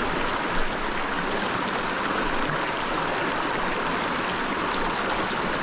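Small mountain creek running steadily through a riffle, an even rushing wash of water, with one short tap about half a second in.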